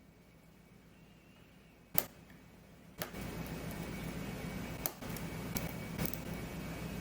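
Small, sharp clicks of watchmaker's tools on tiny watch movement parts, two of them a second apart, then a steady soft handling noise with a few lighter clicks from about three seconds in.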